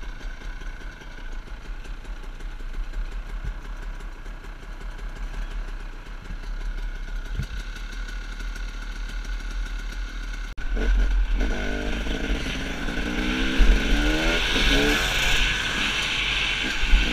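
Dirt bike engine heard from the rider's helmet. It runs quietly at first, then about ten seconds in it gets suddenly louder, and its pitch climbs and drops again and again as the rider opens the throttle and shifts. Wind rumbles on the microphone throughout.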